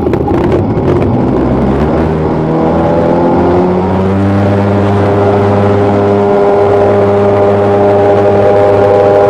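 Jet boat engine accelerating: its pitch climbs for a couple of seconds, then it holds steady at high revs and grows slightly louder, over the rush of water and wind.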